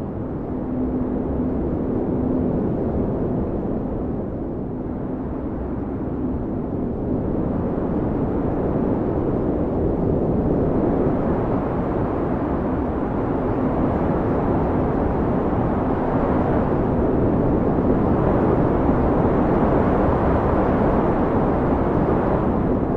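Blizzard wind blowing hard in a steady low rush that swells stronger partway through, with a faint low howling tone coming and going.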